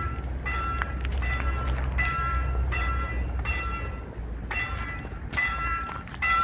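Railway level-crossing warning bell ringing in a steady repeated ding-ding, about one and a half rings a second, signalling an approaching train, over a low rumble.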